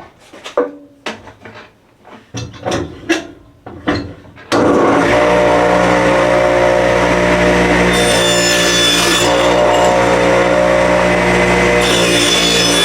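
Knocks and clatter of cedar boards being handled, then about four and a half seconds in a table saw switches on and runs steadily. Its blade rips cedar fence pickets into narrow strips twice, each cut adding a higher hiss.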